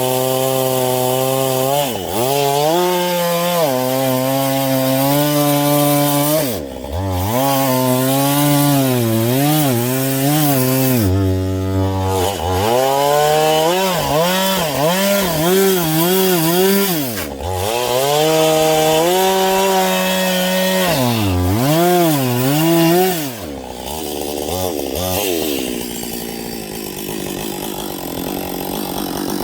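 Husqvarna 562 XP two-stroke chainsaw cutting wood with a dull chain, the engine dipping and recovering in pitch again and again as it bogs in the cut. In the last few seconds the clear engine note drops away to a lower, rougher sound.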